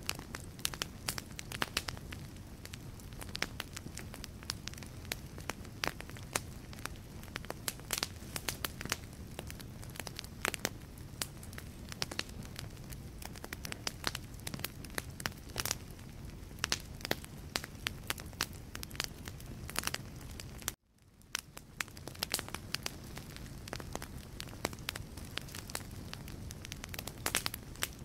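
Wood fire burning in a fireplace: dense, irregular crackling and popping of logs over a low steady rumble of flame. About three-quarters of the way through the sound cuts out suddenly for a moment and then fades back in.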